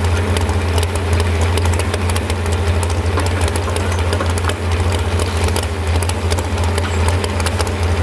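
Modified 4x4 pulling truck's engine running loudly at a steady, unchanging pitch, with a fine crackle over it.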